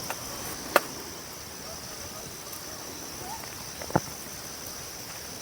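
Insects droning steadily at one high, even pitch, with a few faint short bird chirps. Sharp clicks cut in three times, the loudest just under a second in and another near four seconds.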